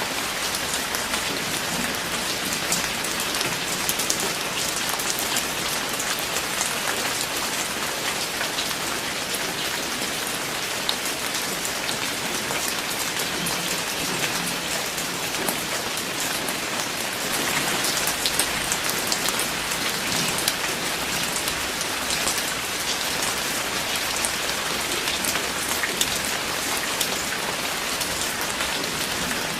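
Steady rain falling on a surface, a dense patter of individual drops over an even hiss, a little heavier for a few seconds past the middle.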